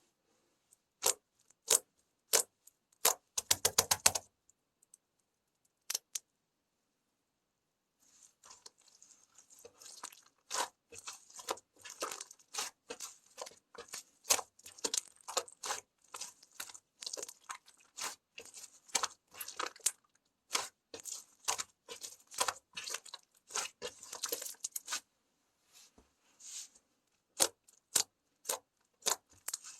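Slime being squeezed and pressed, giving sharp clicks and pops. A few single clicks and a quick run of them come first, then a long stretch of dense crackling clicks, then scattered clicks near the end.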